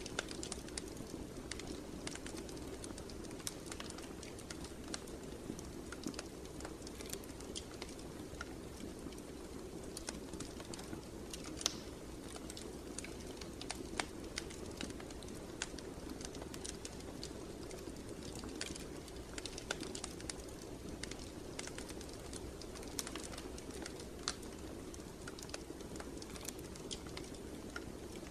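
Wood fire crackling steadily, with irregular sharp pops and snaps over a soft low rush of flames.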